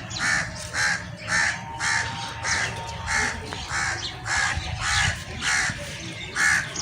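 Crow cawing over and over in a steady, even rhythm, about two harsh caws a second.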